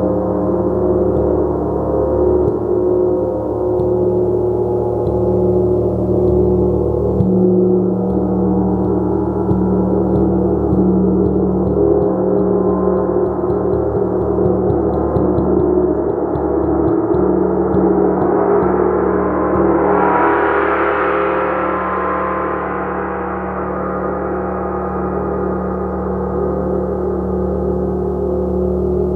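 Gong played continuously, a dense sustained wash of ringing overtones. About two-thirds of the way through, a brighter swell of high overtones builds and then fades back.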